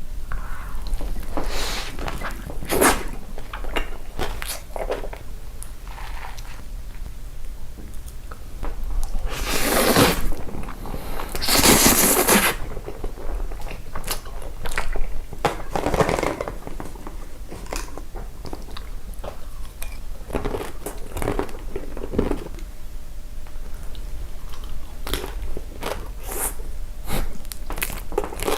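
Close-up biting and chewing of crunchy food, in irregular crunches with two longer, louder crunches about ten and twelve seconds in.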